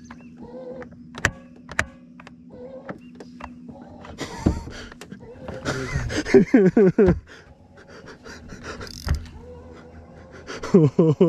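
Electric trolling motor's steering motor straining to turn, a whining tone that slides up and down in pitch, sounding 'very sad': the sign of the steering unit that had been failing to turn. A steady low hum and a few sharp knocks sound throughout.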